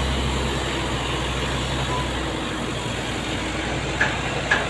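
Heavy truck engine running with a steady low hum over road noise; the hum fades about two seconds in. Near the end come two short, sharp sounds.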